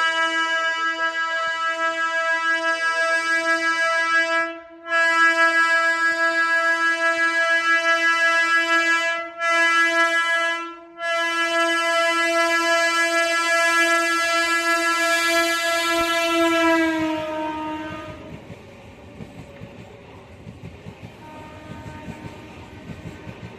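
Indian Railways train horn blown in one long, loud, held blast, broken by three short gaps. Near the end its pitch drops as the train passes, and it gives way to the rumble and clickety-clack of the wheels over the rails.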